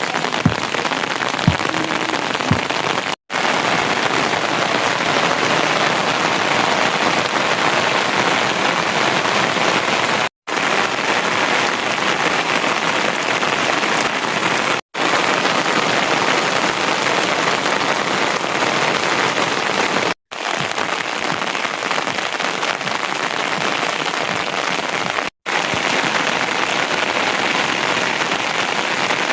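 Steady heavy rain, a dense even hiss, with a few sharp taps near the start. It is broken by five brief silent gaps where clips are joined.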